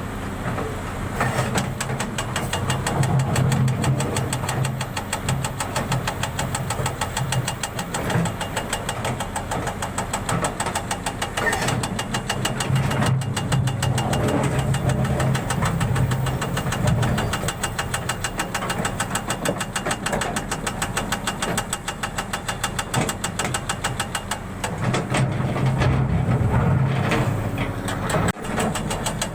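An engine running with a fast, even beat, growing louder for a few seconds at a time, three times over.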